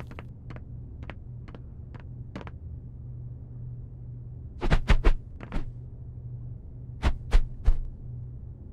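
A row of light clicks, then two clusters of louder sharp knocks, over a steady low hum.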